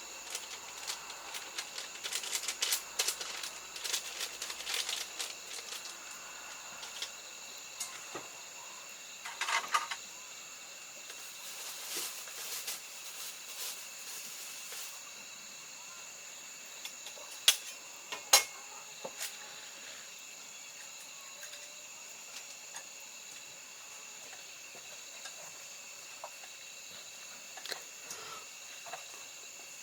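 A steady high drone of insects, likely crickets, with scattered clicks and knocks. Two sharp clicks come about a second apart just past the middle.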